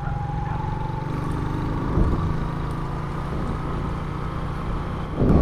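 Motorcycle engine and road noise while riding at a steady pace, a low, even rumble picked up by an action camera's external mic, with a brief bump about two seconds in.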